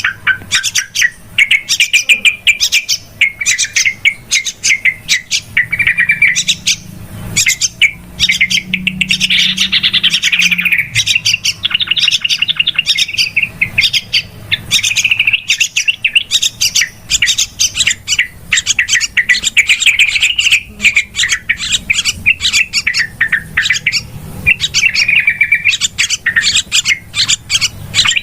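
Yellow-vented bulbuls (trucukan) giving a fast, busy stream of chattering chirps with no pauses: the noisy call used as a lure to draw other bulbuls in.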